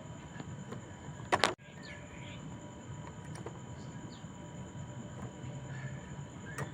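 Poksay mandarin laughingthrush calling: one short, loud harsh burst about a second and a half in, then a few faint short chirps and gliding whistles over steady background hiss.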